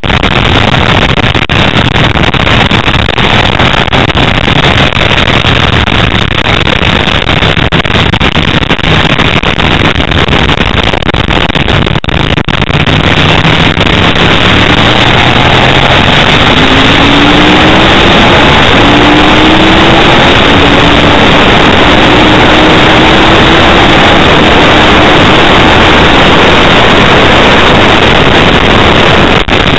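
Onboard sound of a Ducati 888's V-twin engine at racing speed, buried under heavy wind rush on the microphone. From about halfway in, the engine pitch climbs in several successive steps as the bike accelerates up through the gears.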